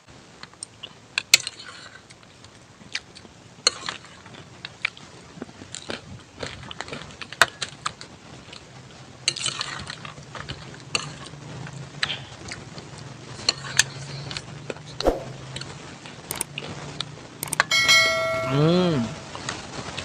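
Eating sounds: scattered clicks and taps of utensils and food, with a low steady hum from about nine seconds in and a short wavering tone near the end.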